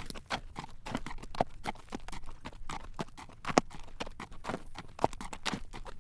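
Horse's hooves clip-clopping on a paved road at a walk while it draws a carriage: a run of sharp hoof strikes, a few per second, some ringing louder than the rest.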